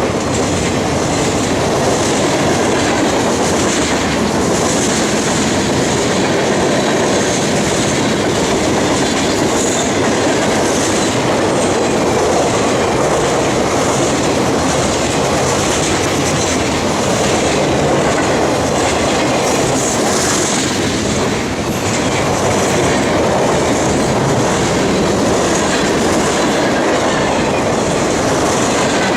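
A train's cars rolling steadily past at close range, with wheels clacking over the rail joints.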